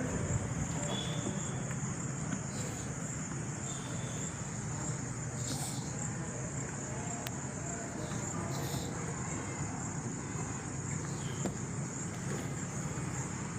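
Steady high-pitched insect drone, crickets or similar, with a few faint short bird chirps over a low background rumble.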